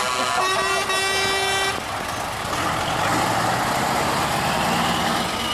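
Truck air horn sounding a held blast that cuts off about a second and a half in, followed by the steady rush of a truck engine running.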